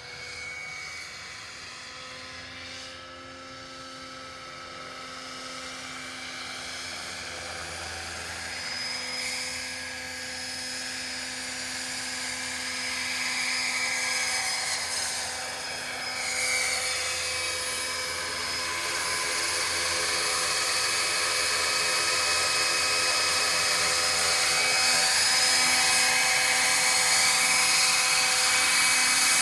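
Electric Roban EC135 scale RC helicopter in flight, its main rotor at a 1250 RPM head speed: a steady motor and gear whine over the rotor hum. The pitch sweeps up and down as it moves about, and it grows gradually louder through the second half.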